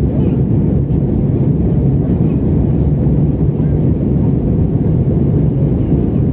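Steady low rumble of an Airbus A320 cabin in flight: the engines and rushing air heard from a window seat.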